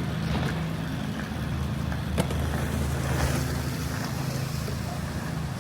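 Street traffic: a motor vehicle's engine running steadily close by, a low even hum, with a single sharp click about two seconds in.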